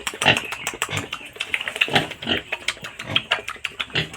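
Several pigs grunting over and over, with many quick clicks and knocks among the grunts.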